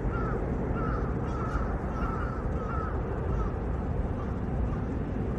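A bird calling over and over, about two short calls a second, over a steady low rumble.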